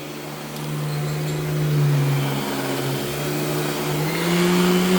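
Royal Deluxe Power Team vacuum cleaner running on full power while being pushed across carpet, a steady motor hum whose pitch dips slightly about a second in and rises again near the end.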